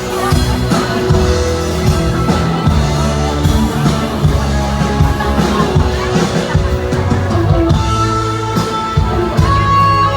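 Band playing a Thai pop-rock ballad with electric guitar and drum kit, in an instrumental stretch between sung lines.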